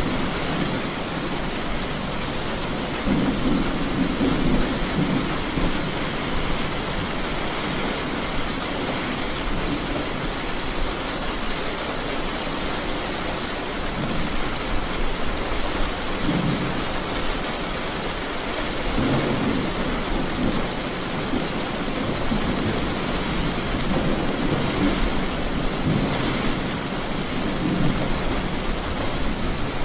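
Steady heavy rain, with low thunder rumbling that swells and fades several times.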